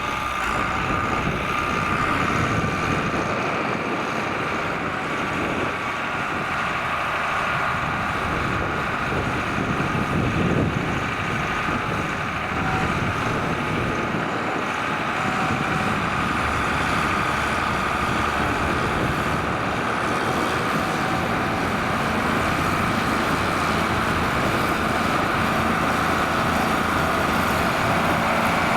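John Deere 4850 tractor's six-cylinder turbo diesel engine running steadily under load, pulling a six-furrow plough.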